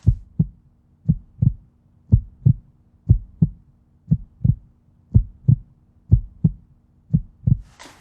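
Heartbeat sound effect: pairs of deep lub-dub thumps at about one beat a second, over a faint steady low hum, building suspense before the box is opened.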